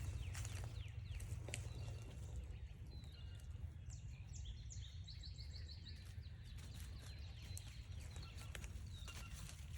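A songbird singing a quick run of high, repeated notes from about three to five seconds in, over footsteps on a forest trail and a steady low rumble.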